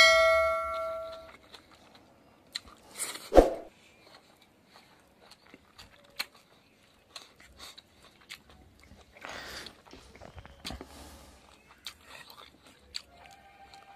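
Close-miked mouth sounds of eating rice and pork fat by hand: chewing and wet smacking with small scattered clicks. A short ringing chime sounds at the very start and fades within about a second and a half. A loud thump comes about three seconds in.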